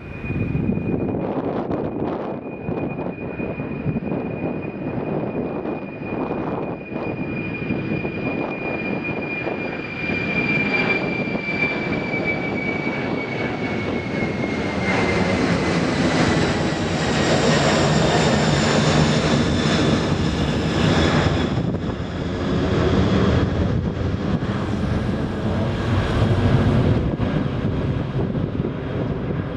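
Jet airliner's engines passing close by: a high fan whine that drops in pitch about halfway through, over a broad engine rush that is loudest past the middle and then wavers.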